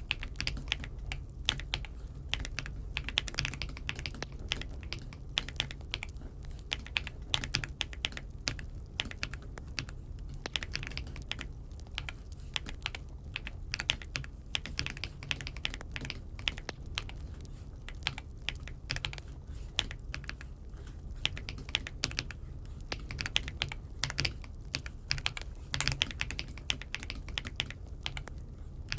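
Typing on an Aula F75 mechanical keyboard: a continuous run of quick keystroke clicks with no pauses longer than a moment.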